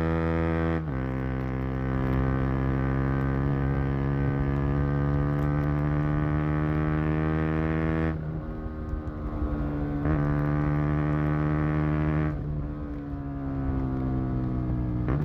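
KTM Duke 125's single-cylinder four-stroke engine and exhaust pulling under load while riding, with a shift in pitch about a second in, as at a gear change. Twice in the second half the note falls away and turns rougher for a second or two, as when the throttle is rolled off, then picks up again.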